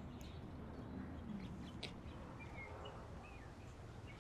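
Faint outdoor ambience with a steady low background hiss, and a few short bird chirps in the second half.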